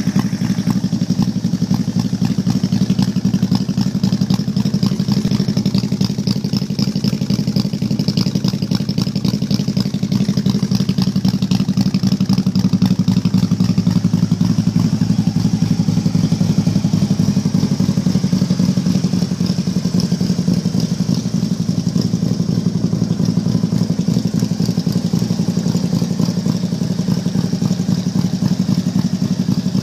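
2009 Harley-Davidson Street Glide's 96-cubic-inch Twin Cam V-twin, with mid-range cams, idling cold through true-dual exhaust and Vance & Hines High Output mufflers. It gives a steady, unbroken run of deep exhaust pulses.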